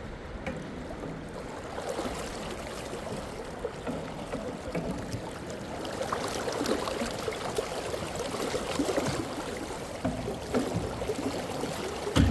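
Flowing river water with irregular splashing and sloshing, and a louder knock near the end.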